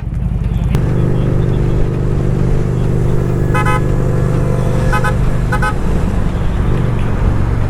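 Motorcycle engine running steadily at highway speed under road and wind noise, with three short horn honks in the middle, the first a little longer than the two quick ones after it.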